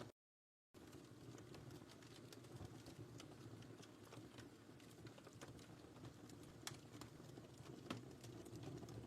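Wood fire crackling softly in a fireplace: a low steady rustle with irregular sharp crackles, two of them louder late on. The sound cuts out completely for about half a second just after the start.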